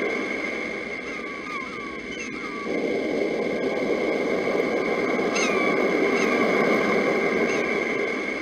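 Sea surf washing in steadily, easing off and then swelling again about three seconds in, with birds chirping over it in short falling chirps that recur every few seconds. A steady high tone runs underneath.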